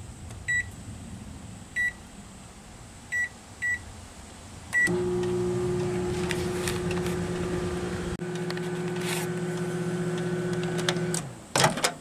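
Microwave oven keypad beeping five times as the time is set and started, then the oven running with a steady hum for about six seconds before it stops. A brief clatter follows near the end.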